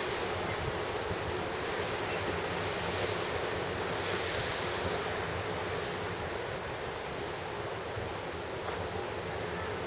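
Pacific surf washing and breaking in a steady roar, swelling about three to six seconds in and easing slightly afterward, with wind buffeting the microphone.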